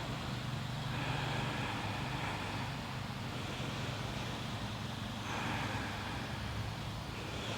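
Steady low background rumble with a faint hum, swelling twice, about a second in and again about five seconds in.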